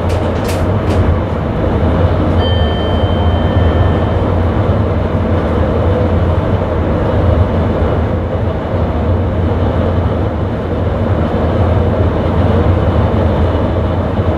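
Electric Sprinter train running at speed, heard from the driver's cab: a steady low hum over the rumble of wheels on rails, with a few sharp clicks near the start. A brief high beep sounds for about a second and a half, starting about two and a half seconds in.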